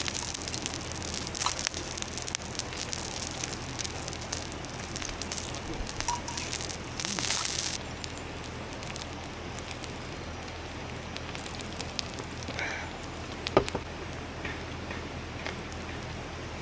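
Wood campfire crackling and hissing: dense pops and snaps over the first half thin out to a quieter crackle, with one sharp loud snap about three-quarters of the way through.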